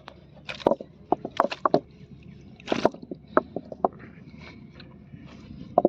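Digging and probing into a crab's burrow in wet mud at the water's edge: irregular sloshes, scrapes and knocks in clusters, with a quieter stretch near the end.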